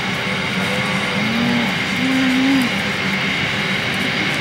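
Freight train of grain hopper wagons rolling past, a steady rumble and clatter of steel wheels on rail, with a brief wavering tone in the middle.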